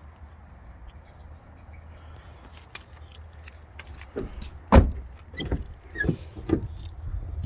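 A low steady rumble, then from about four seconds in a run of sharp clunks and knocks from the pickup truck's body being handled, the loudest coming first and four or five smaller ones following.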